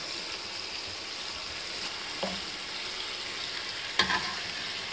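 Masala of ginger-garlic, spices and yogurt frying in oil in a wok, a steady sizzling hiss: the bhunai stage. A light knock comes about two seconds in and a sharper clink near four seconds.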